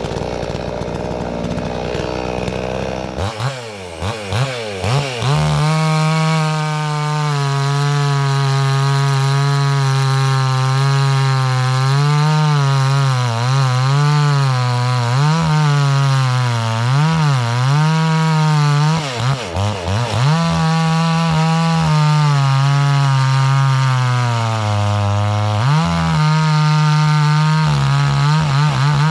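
Gas two-stroke chainsaw of about 60 cc held at high revs while cutting through a log, its pitch sagging and recovering as the chain loads in the wood. The revs drop away briefly twice later on, and it ends in quick rhythmic pulses of throttle.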